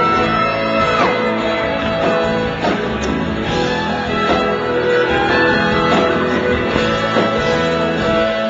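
Live country-rock band playing an instrumental passage between vocal lines, led by guitars over bass and drums. A high held note bends up just before the start and drops away about a second in.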